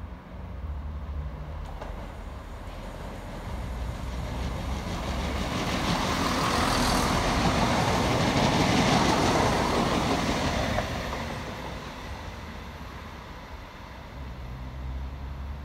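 CrossCountry Class 170 Turbostar diesel multiple unit passing through the station without stopping: its running noise swells as it approaches, is loudest as it goes by about seven to ten seconds in, then fades away.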